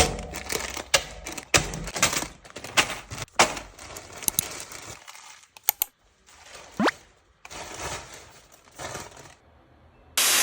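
Small plastic Lego bricks clattering and clicking in irregular runs of sharp clicks, thinning out after about five seconds. A short rising glide comes a little before seven seconds.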